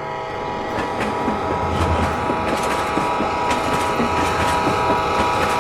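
Train sound effect: a train running with rail clatter and a rumble, under a held steady chord-like tone, which cut off suddenly at the end.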